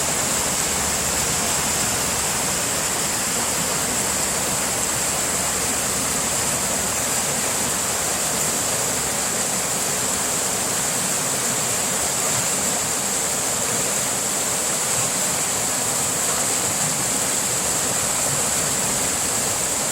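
Creek water rushing steadily over rocks, a constant hissing rush strongest in the high end.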